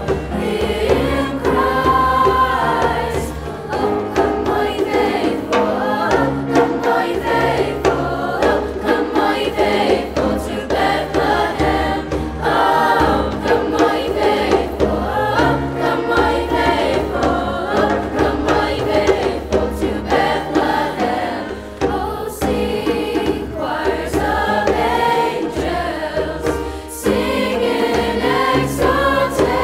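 A chorus singing a choral piece with accompaniment, many voices together holding and moving between notes, over a bass line that steps between low notes.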